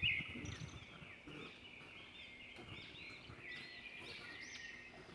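Faint, repeated high chirps of birds over low background hiss.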